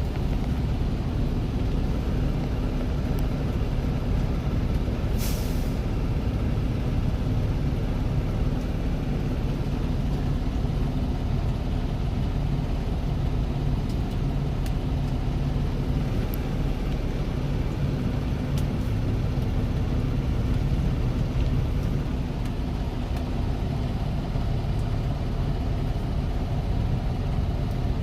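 Semi truck's diesel engine running steadily, with a short hiss about five seconds in and a few faint clicks.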